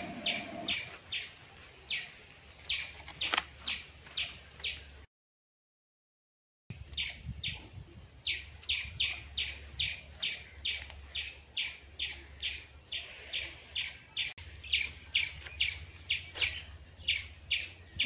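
A bird chirping over and over, short sharp chirps about two or three a second. The sound cuts out completely for about a second and a half about five seconds in, then the chirping carries on.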